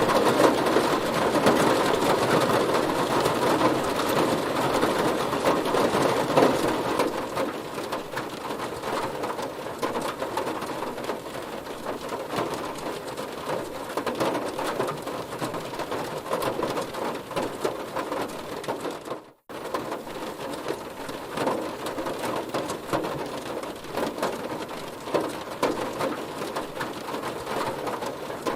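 Heavy rain drumming on a car, a dense patter of drops. It eases somewhat a few seconds in, and cuts out for a split second about two-thirds of the way through before carrying on.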